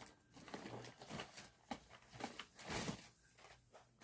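Faint rustling and small clicks of objects being handled, in short uneven bursts.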